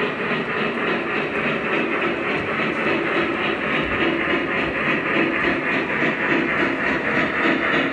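Model train running steadily along the track, a continuous rolling and motor noise with a fast, even flutter.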